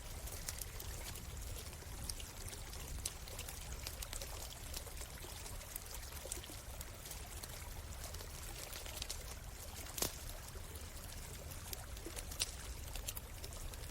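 Campfire crackling with scattered sharp pops, the loudest about ten seconds in, over the steady rush of a flowing stream.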